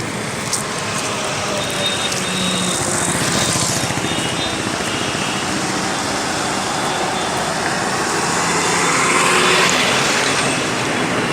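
Road traffic noise: vehicles driving by with engine and tyre noise, swelling as one passes about three seconds in and again, louder, near the end.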